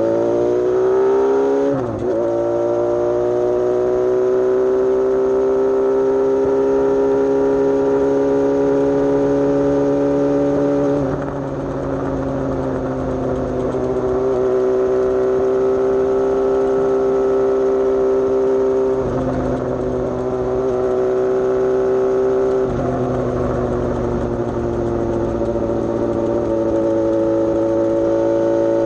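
Suzuki GSX-S750's inline-four engine under way: it revs up and drops in pitch with a gear change about two seconds in, then runs at a steady cruising note, with a few brief dips in level later on.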